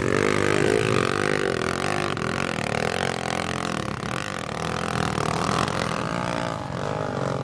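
Off-road motorcycle engine running and revving, its pitch rising and falling.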